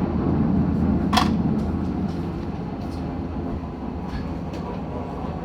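Offshore helicopter's turbine and rotor running with a steady, loud rumble that eases off a little, and a sharp click about a second in.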